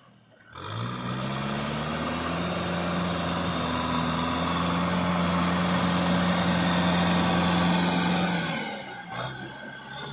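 Kubota tractor's diesel engine coming in about half a second in, rising in pitch, then running steadily. It dips briefly near the end before picking up again.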